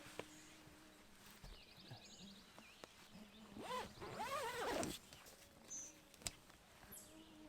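A mosquito whining close by for about the first second. Then, about three and a half seconds in, a wild animal calls: a quick run of pitched notes that rise and fall, lasting just over a second.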